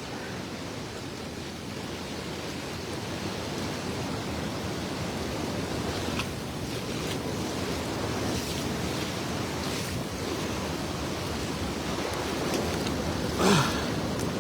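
Steady rush of fast river water below a waterfall. A brief falling cry cuts in near the end.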